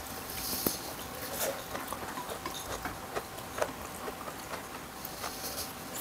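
Close-up eating sounds: soft, irregular chewing and wet mouth noises, with a few light clicks of chopsticks.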